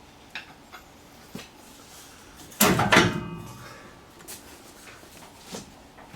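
Metal knocks and clanks from an engine and transmission being worked onto their mounts: a few light knocks, then a loud clatter about two and a half seconds in that rings on briefly like struck metal.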